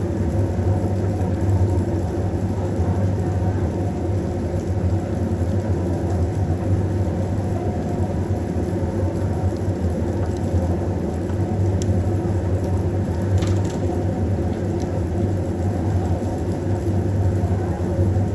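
A steady low drone of a small running motor, unchanging throughout, with a few faint clicks in the last third.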